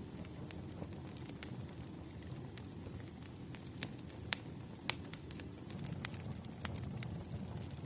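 Wood fire burning: a steady low rumble of flames with scattered crackles and pops, the loudest two a little past the middle.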